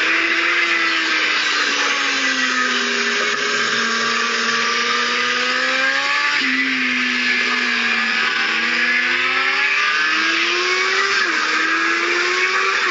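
Kawasaki Z750 inline-four engine heard from on board at speed under heavy wind noise. The engine note falls as the bike slows into a corner, then climbs under acceleration out of it, dropping sharply once near the end at an upshift.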